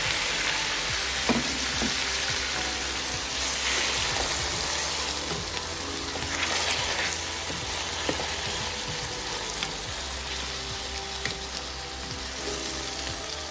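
Tomatoes sizzling in hot oil with fried onions in a pot. The sizzle slowly eases off, with a few sharp knocks from a spoon stirring against the pot.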